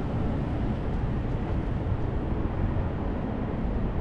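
Steady low rumble of wind on the microphone and rolling noise while riding along the shut-down light rail line.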